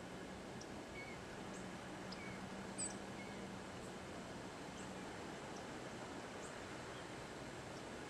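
Scattered faint bird chirps over a steady outdoor hiss, with one sharper high chirp about three seconds in. A faint low hum runs underneath and stops about five seconds in.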